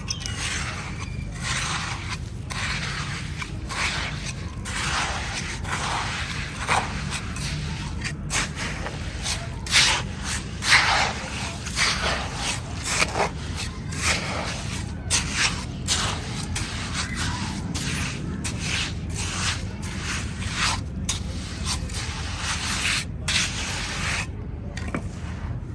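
Sand-cement mixture being scraped and rubbed in many short, irregular strokes as it is worked into shapes.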